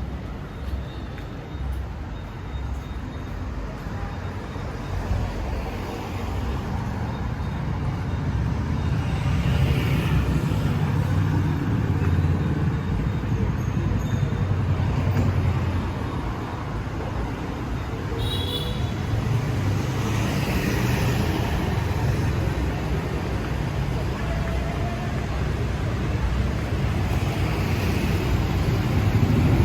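City street traffic: a steady low rumble of engines passing, swelling and easing in waves. A short, high-pitched beep comes about eighteen seconds in.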